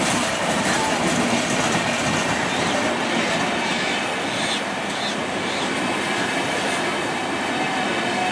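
Gitanjali Express passenger coaches rolling past: a steady noise of wheels running on the rails, with a few short high wheel squeals a few seconds in.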